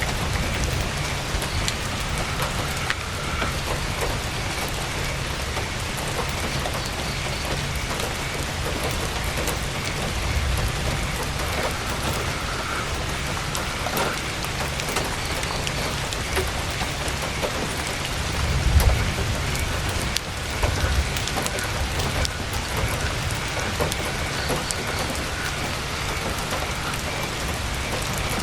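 Heavy rain drumming steadily on a tent's canvas, with scattered sharp drop ticks. A low rumble swells briefly about two-thirds of the way through.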